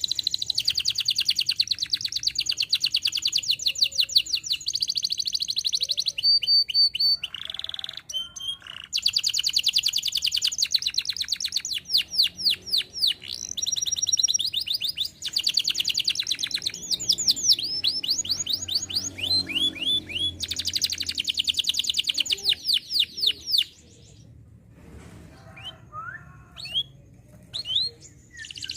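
Domestic canary singing long rolling trills of rapid repeated notes, phrase after phrase, with short breaks and a quieter spell of scattered single notes near the end.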